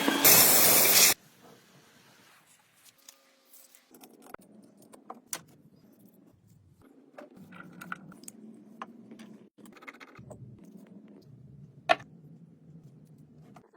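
A loud steady noise cuts off suddenly about a second in. It is followed by quiet workshop handling, with scattered light clicks and clinks, like small metal parts being moved.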